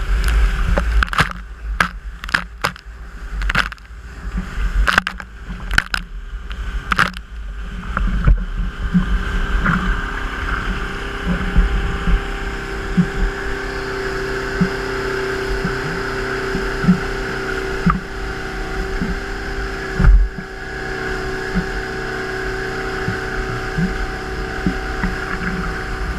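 Motorboat engine running steadily, with a low rumble and occasional thumps. A rapid string of sharp knocks fills the first eight seconds, then the engine note settles and holds.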